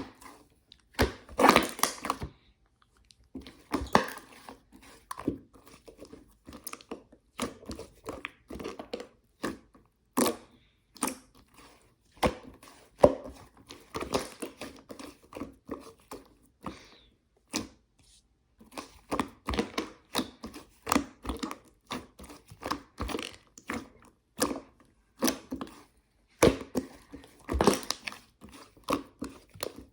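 Hands squishing and stretching slime: irregular crackling, clicking and small popping sounds, with louder squelching bursts now and then.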